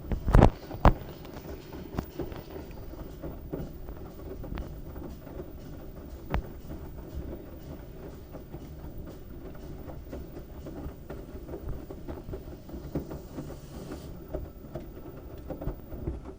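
LG washing machine running with a load of wet towels: a steady low rumble with scattered knocks and rattles from the drum. Two loud thumps come within the first second.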